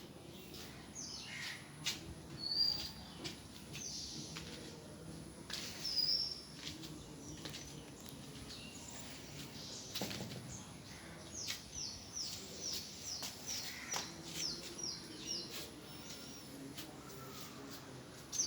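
Birds chirping and calling, with a run of about ten short, falling chirps repeated at a steady pace, a little over two a second, in the second half.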